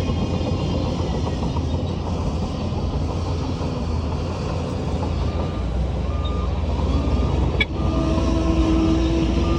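Heavy diesel earthmoving machinery running steadily with a deep rumble. About halfway through, a reversing alarm starts beeping at an even pace, and a machine backs up.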